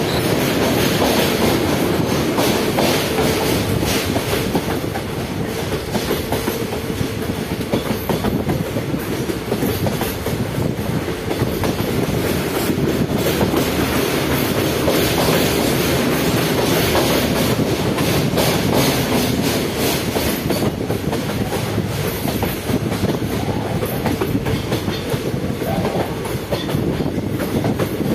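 Train running along the track: a continuous rumble of wheels on rails with a clickety-clack of wheels over rail joints.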